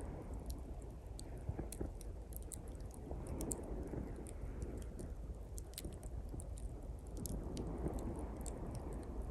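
Small campfire of dry pine twigs crackling, with many sharp irregular pops and snaps. Behind it, sea waves wash on the shore in a low rush that swells a few seconds in and again near the end.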